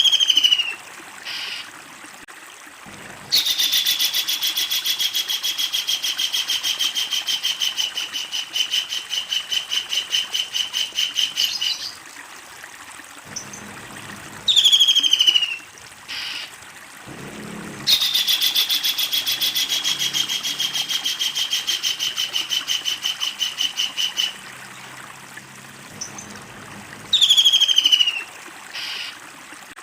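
Kingfisher calling: short sharp calls that slide downward, alternating with long rapid rattling series of many evenly spaced notes, each run lasting six to eight seconds and sagging slightly in pitch before it cuts off. There are two such long runs, each separated from the next by a short descending call.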